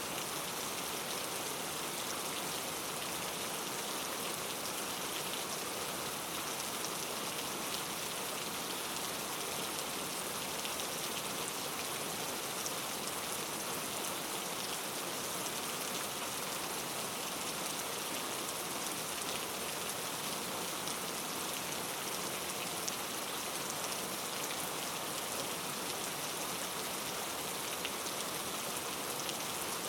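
Steady rainfall, an even hiss of rain with the fine patter of drops hitting a surface, with no thunder.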